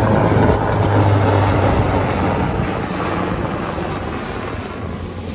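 Mini bike's small single-cylinder engine running with a steady low drone that fades gradually.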